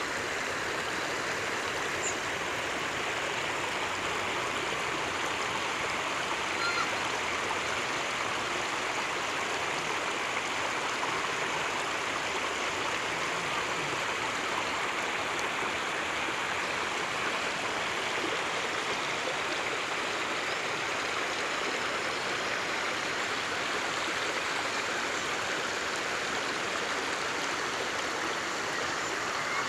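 Water of a stream running steadily, an even rushing, splashing flow with no change in level.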